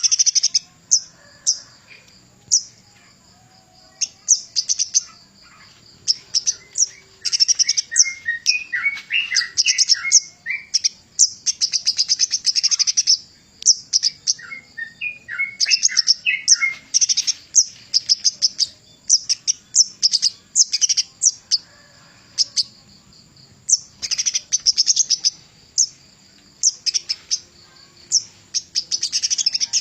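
Kemade gunung (mountain flowerpecker) singing in long, rapid bursts of very high-pitched chattering notes with short pauses between. Twice, a run of lower, choppier notes breaks in.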